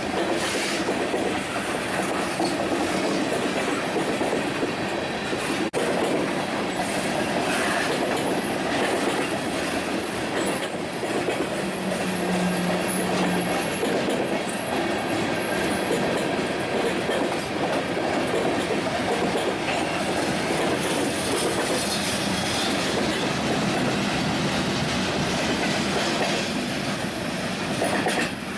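A train's cars rolling past with a steady rumble and clatter of wheels over the rails. A thin, high-pitched wheel squeal comes in about eight seconds in and fades out around the middle.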